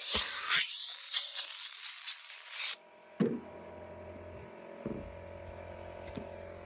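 Hissing spray cleaning an air conditioner's condenser fins, cutting off abruptly about three seconds in. Afterwards a low steady hum remains, with a couple of light knocks.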